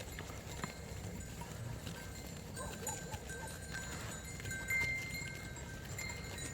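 A flock of sheep grazing, heard faintly: scattered small animal sounds and short thin tones over a steady low hiss.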